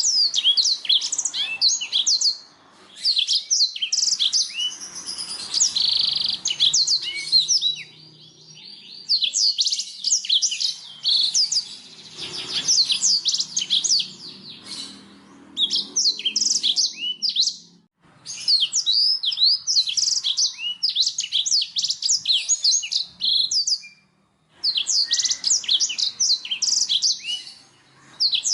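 Black-throated canary (blackthroat) singing: long phrases of rapid, high chirps and trills, broken by short pauses every few seconds.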